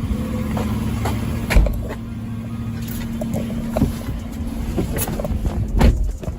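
A car engine running at idle with a steady hum, broken by several knocks and thumps. The loudest thumps come about one and a half seconds in and near the end.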